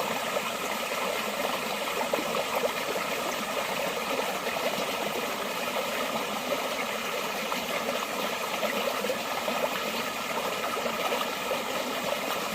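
Forest stream flowing steadily: a continuous trickle and babble of running water over stones.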